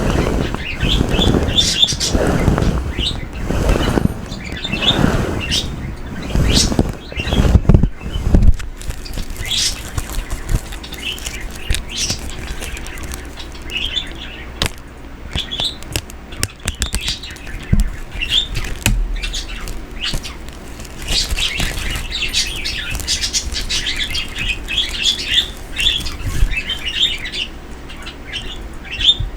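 Pet birds chirping and tweeting, in many short high calls that come in clusters. For the first eight seconds a loud swishing rustle repeats about once a second, and after that there are scattered light clicks and taps.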